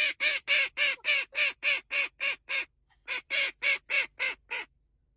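A bird giving harsh, cawing calls, about four a second: a run of about a dozen, a short pause near the middle, then about seven more.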